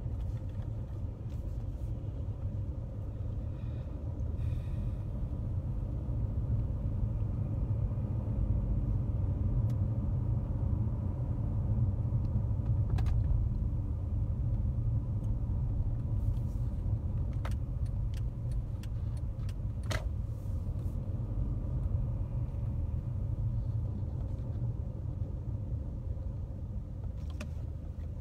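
Steady low rumble of a running road vehicle, with a few faint clicks.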